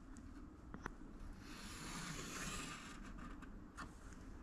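Faint scratch of a pencil drawing a line on wood, lasting about a second and a half, with a few light ticks around it.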